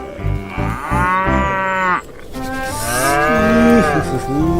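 A cow mooing: two long calls, each rising and then falling in pitch.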